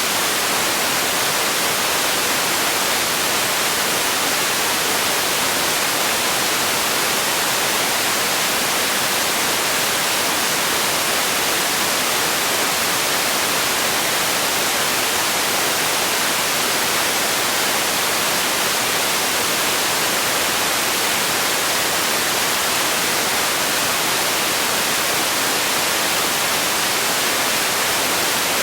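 Steady synthetic white noise: an even hiss, strongest in the high end and thin in the bass, with no change in level or texture.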